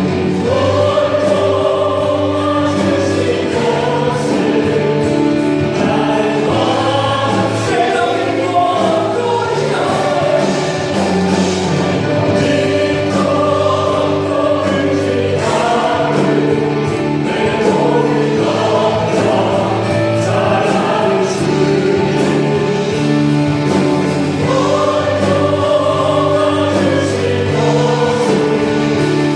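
A group of voices singing a Korean Christian worship song in chorus, over steady instrumental accompaniment with sustained low notes.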